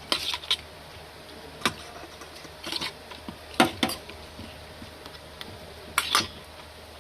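Spatula scraping and knocking against a pan as a curry spice paste (masala) is stir-fried: a handful of short, separate strokes a second or so apart over a faint steady background.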